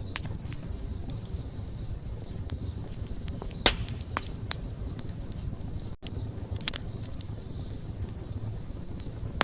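Wood campfire burning: a steady low rumble of flame with scattered sharp crackles and pops, the loudest pop a little under four seconds in. The sound drops out for an instant about six seconds in.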